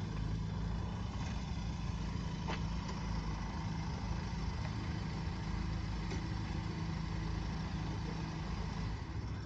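Car engine running steadily with an even low hum, a couple of faint clicks over it.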